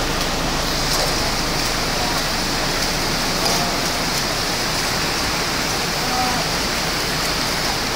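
Muddy typhoon floodwater rushing in a steady, unbroken torrent.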